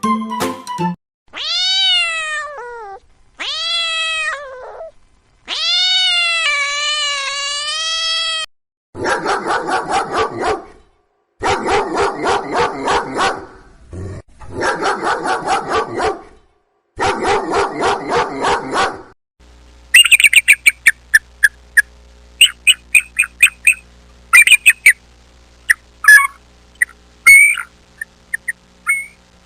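A run of animal calls: three drawn-out wavering cat meows, then four bursts of rapid pulsed calls, then a long series of short, sharp bird chirps.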